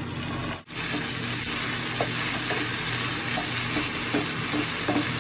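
Carrots, celery, leeks and onion frying in oil with tomato paste, sizzling steadily while they are stirred around a nonstick pan, with light scrapes and taps of the spatula. The tomato paste is caramelizing with the vegetables. The sound drops out briefly just over half a second in.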